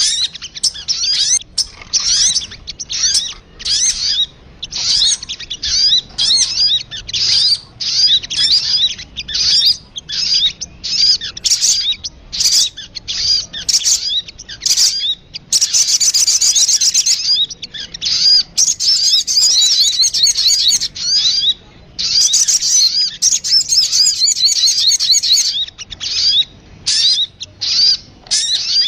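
Sogun bird lure calls: rapid, high chirping phrases repeated in short bursts, running into long, busy, continuous chattering about halfway through and again a little later.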